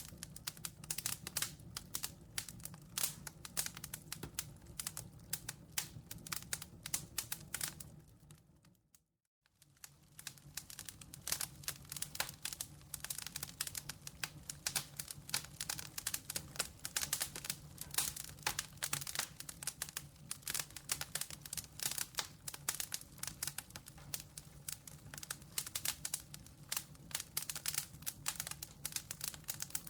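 Campfire crackling: a dense, irregular run of sharp pops and snaps over a steady low rumble. About nine seconds in, the sound fades out briefly and comes back.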